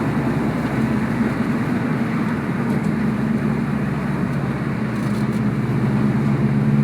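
Subaru WRX turbocharged flat-four engine and road noise heard from inside the moving car, running at a steady cruise with the engine note holding an even pitch.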